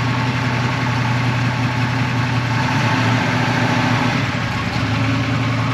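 An engine running steadily at low revs, an even hum with no change in pitch.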